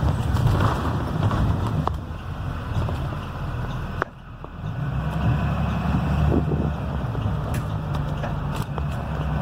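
Cummins B6.7 diesel engine of a Blue Bird Vision school bus running as the bus drives, a steady low rumble with road noise. About four seconds in there is a click and the sound drops suddenly for about a second before returning.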